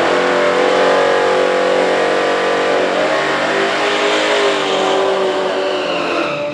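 Drag racing vehicle's engine at full throttle down the strip, its pitch held high and steady, then sagging a little lower over the last few seconds.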